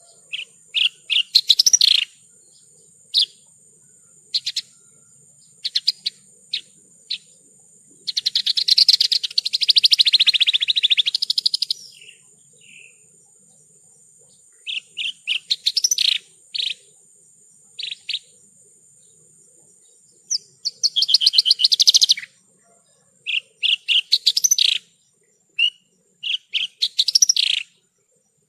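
Horsfield's bush lark (branjangan) singing: quick runs of short, sharp chirps and trills, with two longer buzzy, rattling phrases about a third of the way in and again about three quarters through.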